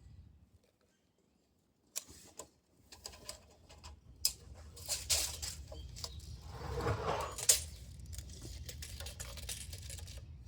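Scattered light knocks, clicks and scrapes from handling wood and hand tools, busiest in the middle, over a faint low hum; near silence for the first two seconds.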